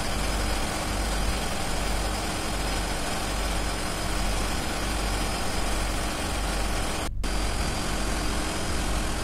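Steady diesel engine-room machinery running: a continuous low rumble under an even hiss. The sound cuts out for an instant about seven seconds in.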